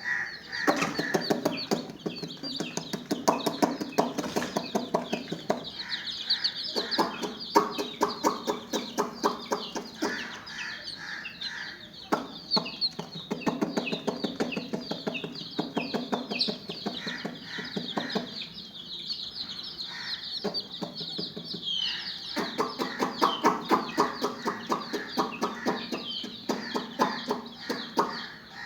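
A crowd of chicks peeping constantly in high, short calls, with repeated runs of lower, rapid clucking from chickens every few seconds.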